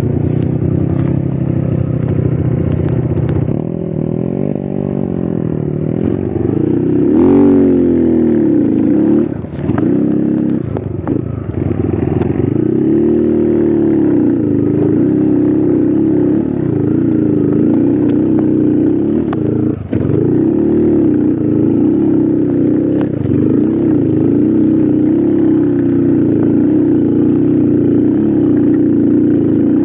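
Trail motorcycle engine revving up and down under load, its pitch rising and falling again and again, with a few brief clacks from the bike on the rough ground.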